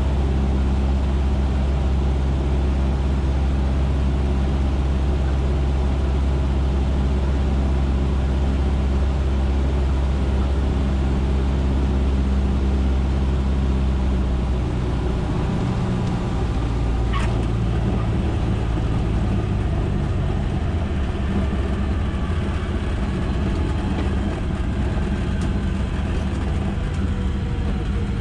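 Cessna 150's four-cylinder Continental O-200 engine and propeller running steadily, heard from inside the cabin; the engine note changes about halfway through.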